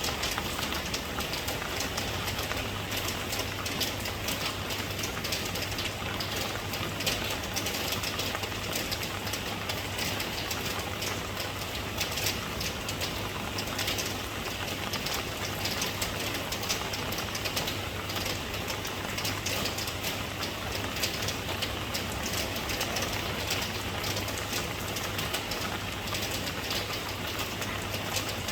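Steady rain falling, a dense patter of drops on surfaces. A steady low hum joins underneath about two seconds in.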